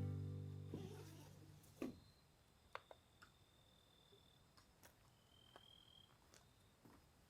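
Background music fading out, then near silence broken by a few scattered sharp clicks and a faint, high, steady tone that comes and goes twice.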